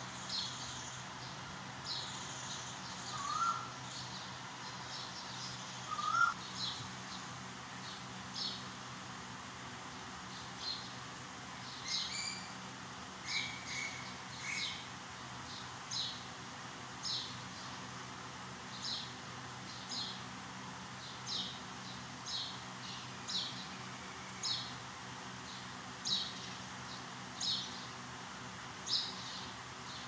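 Birds chirping: a short, high chirp repeated about once a second, with a few lower calls in between.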